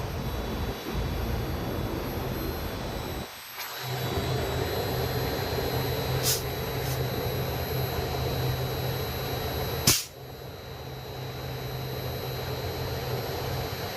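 Steady mechanical hum and whir with a thin high-pitched tone over it, briefly dropping away about three and a half seconds in. A few faint clicks follow, then one sharp, loud click about ten seconds in.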